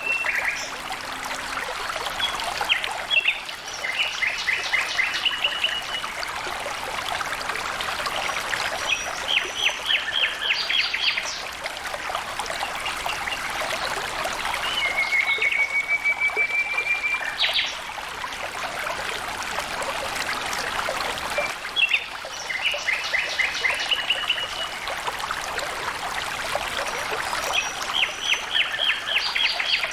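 Stream water flowing and trickling steadily. A bird calls over it in four short trilled phrases and gives one drawn-out rising whistle about halfway through.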